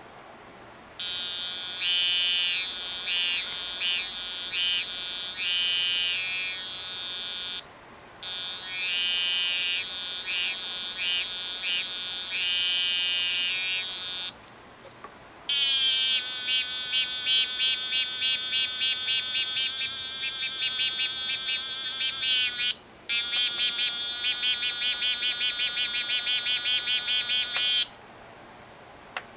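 Electronic cicada-imitating machine buzzing out cicada-like song. First come two phrases of a swelling, wavering buzz. After a short gap, a longer run of even pulses follows that quicken to about four a second, broken once by a brief pause.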